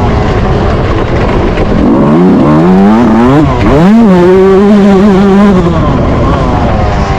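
Yamaha YZ125 single-cylinder two-stroke motocross engine accelerating: its pitch climbs about two seconds in, dips briefly, climbs again and holds high for under two seconds, then falls away, over a constant rushing noise.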